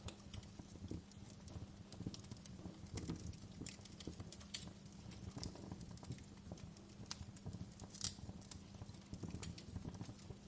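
Wood fire crackling: irregular sharp pops and snaps over a low rumble of burning, the loudest snap about eight seconds in, with a faint steady low hum beneath.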